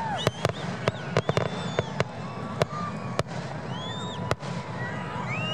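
Fireworks display: a string of sharp bangs from bursting shells, bunched in the first two seconds and sparser after, over whistling rockets whose tones rise and fall, with one rising whistle held near the end.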